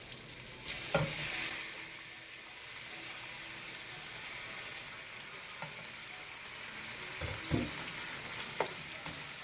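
Chicken pieces frying in hot corn oil with garlic, onion and ginger in a deep pan: a steady sizzle that swells about a second in as the chicken goes into the oil. A few short knocks of a utensil against the pan come near the end.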